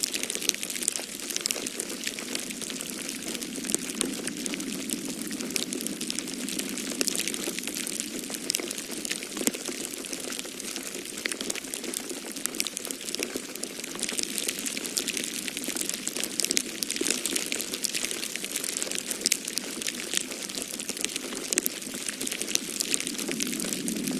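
Wood fire crackling in a fireplace: a dense, irregular stream of small pops and snaps over a steady low rush of storm wind that swells and eases.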